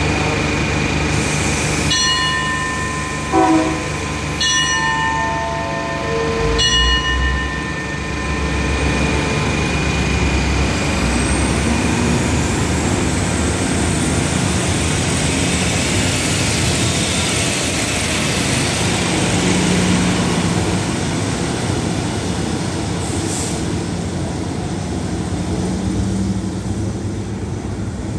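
Express passenger train pulling out of a station: a few short pitched signal toots in the first seven seconds, then a deep engine rumble as it gets under way, followed by a steady rolling noise of the carriages passing, easing off near the end.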